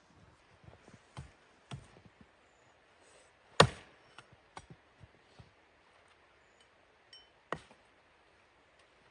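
Scattered sharp knocks and cracks, one much louder about three and a half seconds in and another strong one about seven and a half seconds in, with lighter clicks between.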